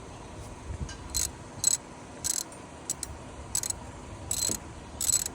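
A series of about seven short, high-pitched mechanical squeaks at uneven intervals of roughly half a second to a second, over a low steady hum, from work on the drive belt and tensioner of a 7th-generation Honda Accord.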